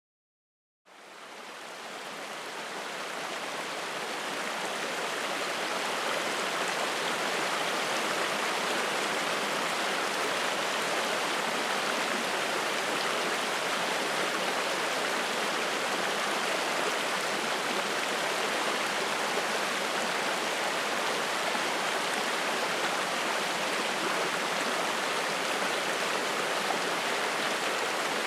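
Spring-fed mountain stream rushing and splashing over rocks in a steady, even rush. It fades in from silence about a second in, growing fuller over the next few seconds.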